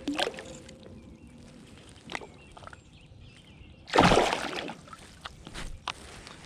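Water sloshing around a kayak, with a few light knocks and one loud splash about four seconds in.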